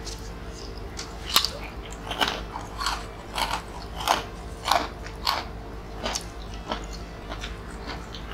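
Close-up crunching and chewing of crisp fried crackers being eaten by hand, a sharp crunch every half second or so, softer over the last couple of seconds, over a steady low hum.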